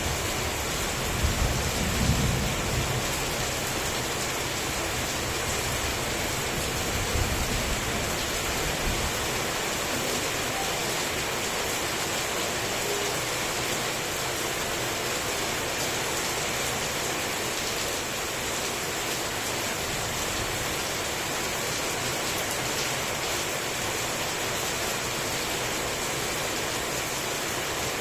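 Heavy rain falling steadily as a dense hiss, with low rumbles of thunder in roughly the first nine seconds that then fade out.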